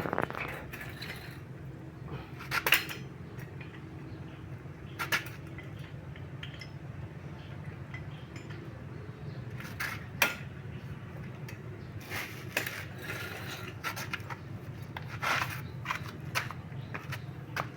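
Metal tools and parts clinking and knocking now and then, a dozen or so sharp hits, over a steady low hum.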